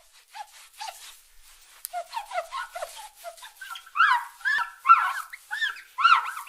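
A rapid string of short squeaky calls, each rising and falling in pitch, about three a second and getting louder. It sounds like a bird or fowl sound effect.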